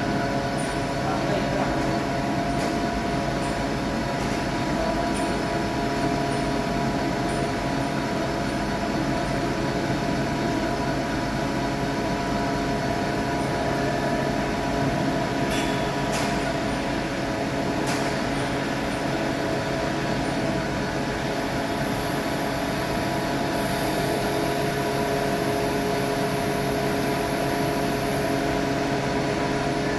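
Workshop machinery running with a steady hum made of several constant tones. A few sharp clicks come through it, and a high hiss is added for several seconds in the second half.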